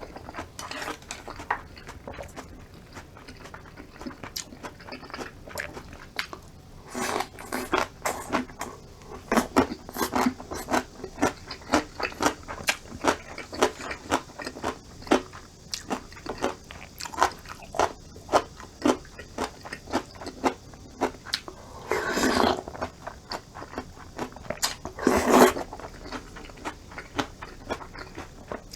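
Close-miked mukbang eating sounds: a person chewing and biting food, with irregular crunches and wet mouth clicks. Two louder, longer sounds come about two-thirds of the way through, a few seconds apart.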